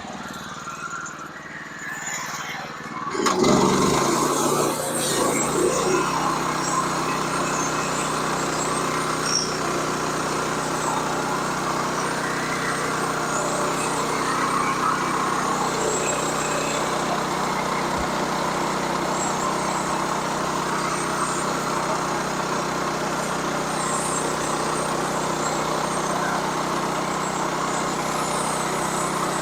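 Sawmill's small gasoline engine starting up about three seconds in, unsteady for a couple of seconds, then running at a steady speed.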